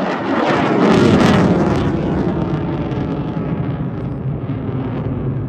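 Eurofighter Typhoon jet engine noise as the fighter pulls into a vertical climb and departs. A loud roar peaks about a second in with its pitch falling, then settles into a steady low rumble.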